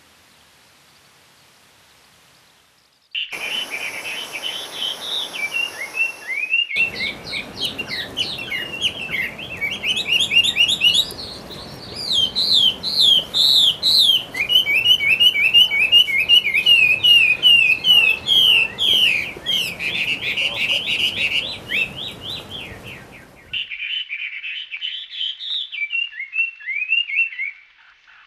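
Songbird singing: fast runs of short, sliding whistled notes, repeated in quick series. The sound cuts abruptly between several separate recordings, after a few seconds of faint hiss at the start.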